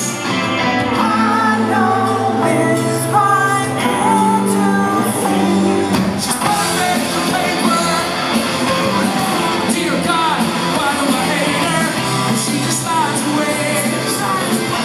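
Live rock band playing at full volume, with singing and shouted vocals over guitars, bass and drums.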